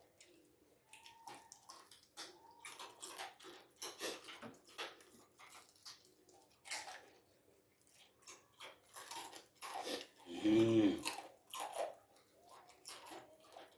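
A person chewing and biting on boiled bones and meat: a run of short crunches, clicks and mouth smacks. About ten seconds in comes a brief, louder pitched sound, the loudest moment.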